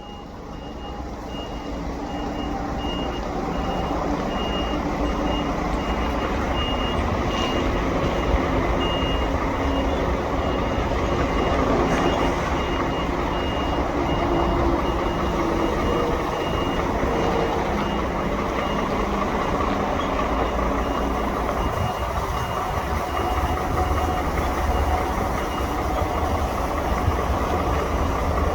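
Scania R410 Euro 6 truck's diesel engine running steadily, with a repeated high-pitched beep typical of a reversing alarm that stops about two-thirds of the way through. The sound fades in at the start.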